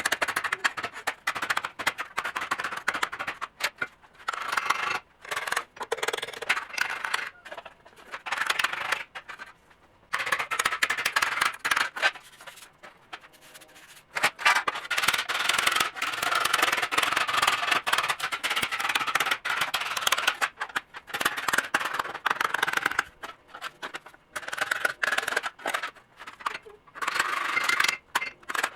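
Hand rubbing and scrubbing on a metal car door sill plate, in irregular strokes with short breaks and a longer pause about twelve seconds in.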